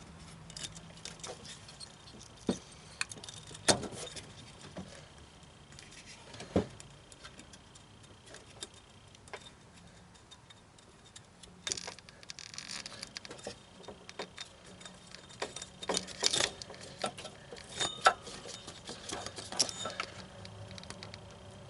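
Hand work on a car engine's timing-belt end: scattered metallic clinks, taps and knocks of tools and parts, with short rustling scrapes about halfway through and again later, as the loosened timing belt is worked off its pulleys.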